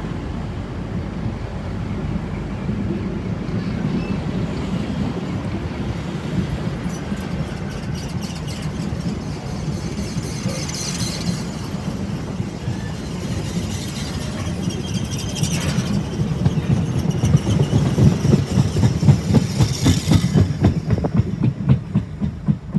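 Freight train's container flat wagons rolling past: a steady rumble of wheels on the rails, with a few brief high wheel squeals. In the last several seconds a rhythmic clickety-clack over the rail joints grows louder.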